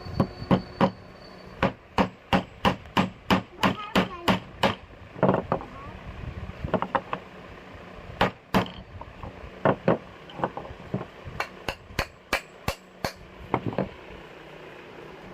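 Repeated sharp hammer blows on sheesham wood, in uneven runs of about three to four strikes a second broken by short pauses.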